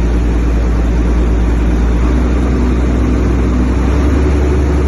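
International DT466 inline-six diesel engine running steadily, a loud, even low drone.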